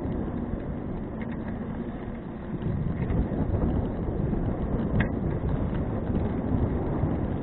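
Wind rushing over an action camera's microphone on a moving bicycle, a dense low rumble that grows louder about two and a half seconds in. A small click sounds about five seconds in.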